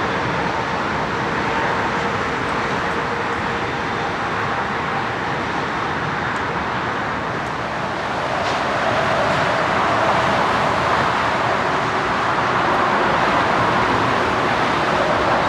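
Airbus A320neo jet engines running, a steady noise with a faint high whine in it that grows slightly louder about nine seconds in.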